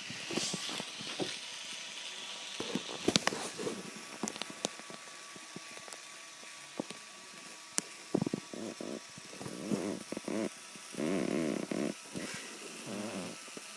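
Small electric motors and plastic gears of a remote-controlled LEGO truck whirring in short bursts, the longest about a second, with scattered clicks and knocks.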